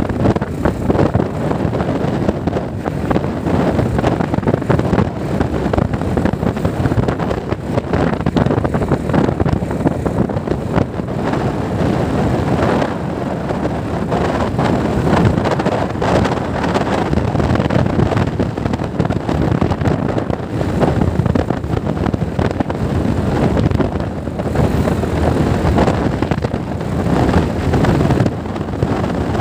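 Wind buffeting the microphone on a bike moving at speed: a loud, constantly fluctuating rush with vehicle and road noise underneath.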